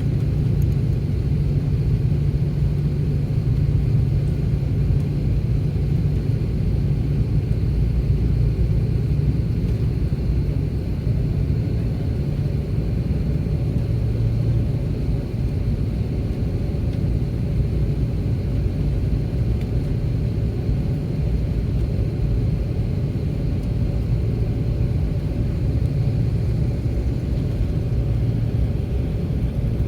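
Cabin noise of an Airbus A330-300 taxiing after landing: a steady low rumble from the jet engines at idle and the rolling aircraft.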